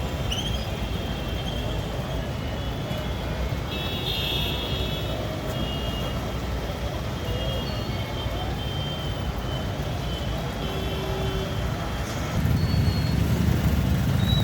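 Jammed street traffic: a steady low rumble of engines with short horn honks sounding again and again over it. The rumble gets louder about twelve seconds in.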